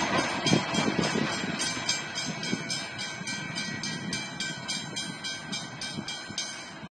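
A train fading away along the line while a railway level crossing bell keeps ringing in rapid, even strokes. The sound cuts off suddenly near the end.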